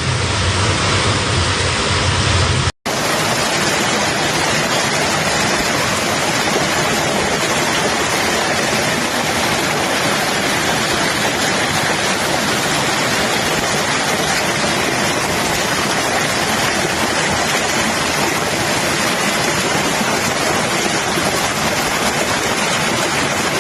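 Heavy rainstorm: a loud, steady rush of pouring rain and running water. It breaks off briefly about three seconds in, where one recording gives way to another, and then runs on unchanged.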